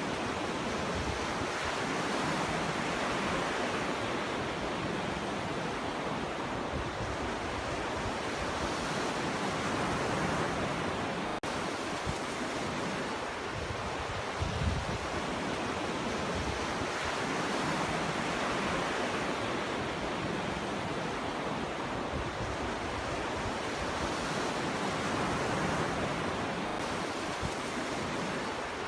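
Ocean waves breaking on a beach: a steady wash of surf that swells and eases about every seven or eight seconds. A brief low thump comes about halfway through.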